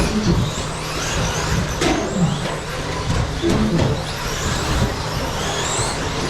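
Several 1/10-scale electric 2WD stadium trucks racing, their motors whining in repeated high glides that rise and fall as they accelerate and brake. A couple of sharp clacks are heard, about two seconds and three and a half seconds in.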